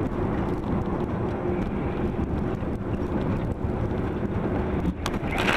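Vehicle driving: a steady engine and road rumble with a faint even hum, and a sudden sharp noise near the end.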